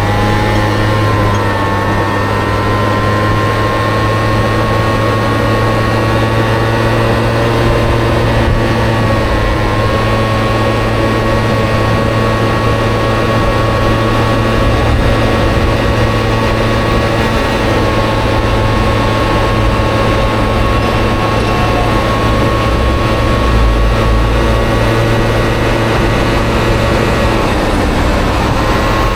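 Honda Dio two-stroke scooter engine in a Honda Motocompo running at a steady cruising speed, a loud even drone whose pitch dips briefly a couple of times and picks up again near the end.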